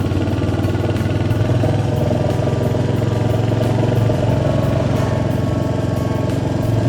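Royal Enfield Hunter 350's single-cylinder engine running steadily under way, with an even, rapid pulse of firing strokes.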